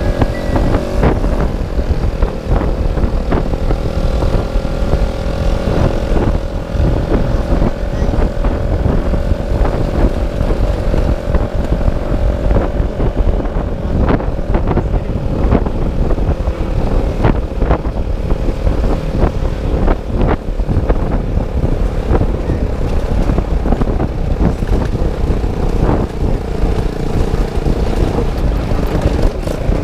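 Motorcycle engine running at a steady cruising speed, with heavy wind rumble on the microphone; the engine note sags slightly lower near the end.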